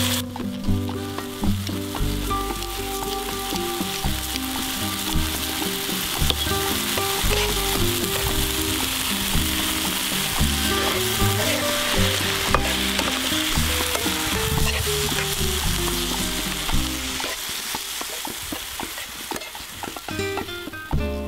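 Mallow greens sizzling as they fry in a pan, stirred and turned with metal tongs while the liquid cooks off, over soft background music that fades near the end.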